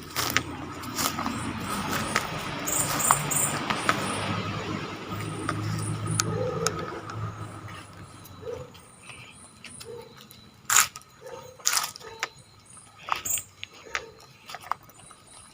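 Crickets chirping in short, repeated high pulses over a rustling noise that fades after about half the time, then a few sharp knocks.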